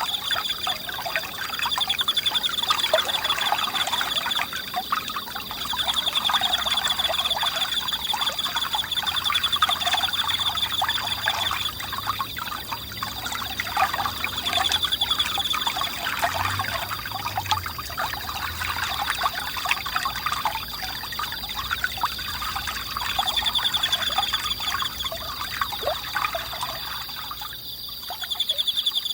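A small forest stream babbling and trickling, with insects trilling steadily at a high pitch over it. The stream sound stops shortly before the end, leaving only the insects.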